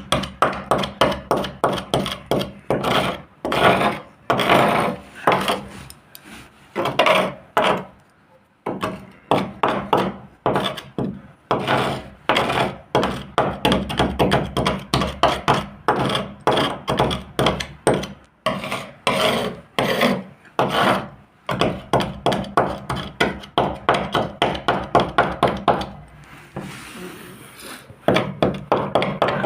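Hand sanding on a boat hull: rapid back-and-forth rubbing strokes of abrasive paper, several a second, with a short pause near the end.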